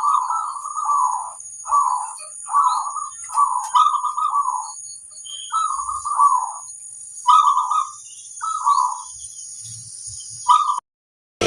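Zebra dove (perkutut) cooing, a series of short, rolling coo phrases repeated with brief pauses, over a faint steady high-pitched whine. The sound cuts off abruptly near the end.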